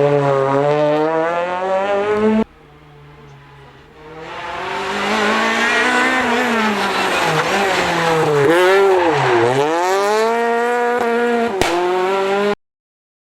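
Renault Clio R3 rally car's four-cylinder engine running hard, its pitch rising and falling with the revs. About two and a half seconds in the sound drops abruptly to a quieter stretch, then the engine climbs again, dips sharply and revs back up before the sound cuts off suddenly near the end.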